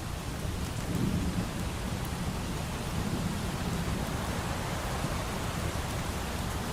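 Steady rain with a low rumble of distant thunder swelling about a second in, then rolling on more softly.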